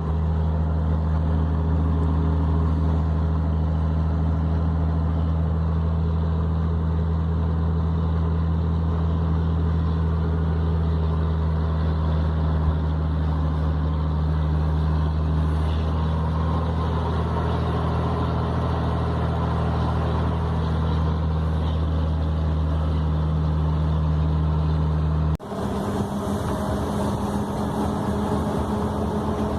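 Scania 113 truck's six-cylinder diesel engine running with a steady drone. About 25 seconds in, the sound breaks off sharply and picks up again at a slightly higher, rougher note.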